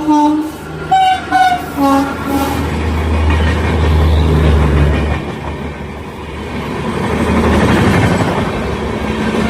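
Passing SMVT Bengaluru–Guwahati Express: short horn blasts in the first couple of seconds, then the steady rumble and clatter of the coaches' wheels running through the station. The low hum fades about five seconds in.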